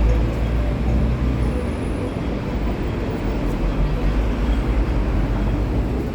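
Steady low rumble of a moving vehicle, loud and even throughout.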